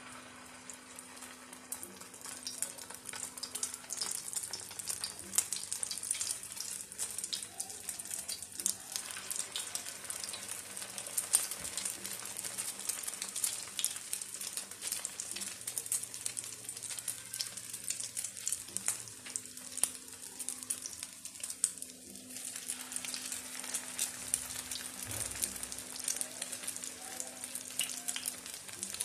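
Egg-coated potato cutlets shallow-frying in hot oil on an iron tawa: a steady sizzle with a dense crackle of spitting pops, which sets in as the first cutlet goes into the oil.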